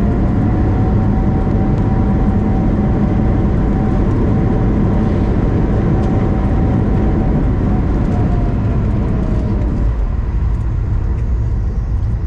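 Cabin noise inside an Airbus A220-100: a heavy low rumble with a steady engine whine that winds down about eight to nine seconds in. The rumble eases soon after.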